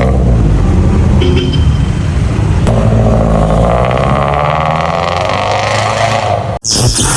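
Exhaust note of a Subaru Forester's flat-four engine running through aftermarket UEL headers, a full exhaust and a Kakimoto muffler while the car is driven, a steady low drone that swells a little from about three seconds in. Near the end it cuts off suddenly and a different, hissy noise takes over.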